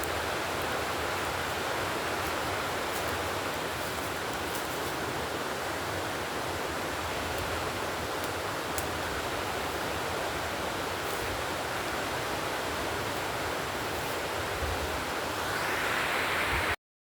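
Steady rushing noise with a few faint ticks. Near the end it grows briefly brighter, then cuts off abruptly.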